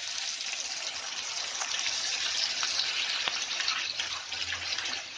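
Wet onion and green chilli paste sizzling hard in hot oil, a steady dense hiss, with a few faint clicks.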